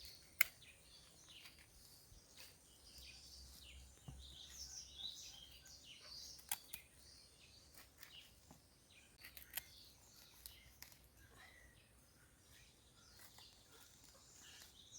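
Birds chirping faintly and repeatedly, with a few scattered sharp clicks.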